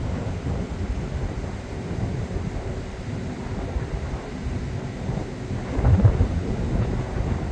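Wind buffeting the microphone: a low, gusty rumble with a stronger gust about six seconds in.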